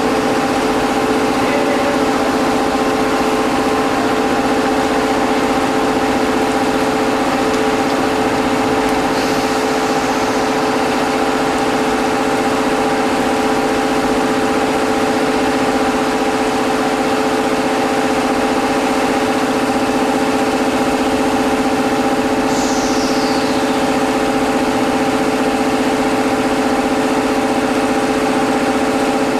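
Steady electric machinery hum made of several constant tones over a running noise, unchanging in level throughout. A faint high-pitched falling sweep comes twice, about a third of the way in and again about three-quarters of the way in.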